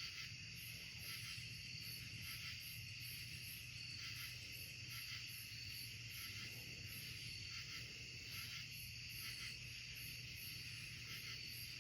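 Night-time insect chorus in the woods: a steady high-pitched buzzing drone with a very high chirp pulsing about twice a second, over a faint low hum.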